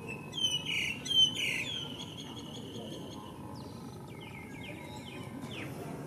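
Birds calling: two loud falling chirps about a second in, then a run of softer short notes a few seconds later, over steady low background noise.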